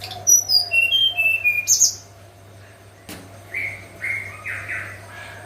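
Hill blue flycatcher singing: a phrase of clear whistled notes stepping down in pitch, followed about three and a half seconds in by a few shorter, rougher notes.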